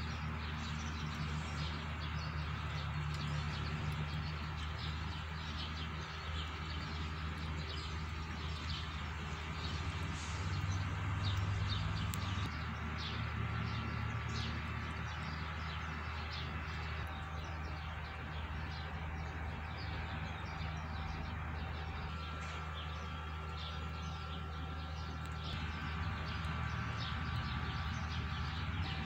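Small birds chirping over and over, short quick chirps throughout, over a steady low hum.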